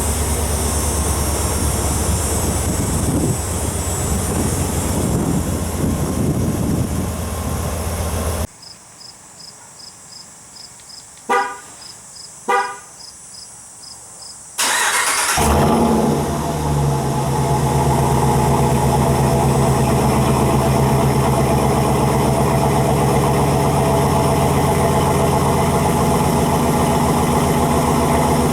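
2019 Ram 1500 pickup engine idling through its exhaust, then shut off. In the quiet gap a faint regular ticking sounds, then two short horn chirps about a second apart. The engine cranks, catches, revs briefly and settles back into a steady idle.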